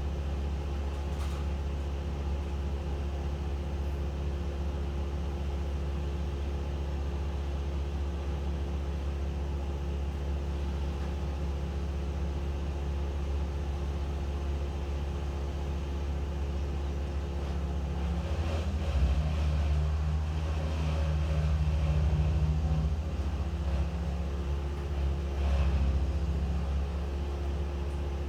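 An engine running steadily with a low hum. For several seconds about two-thirds of the way through it grows louder and rougher, as if under load or revved, then settles back.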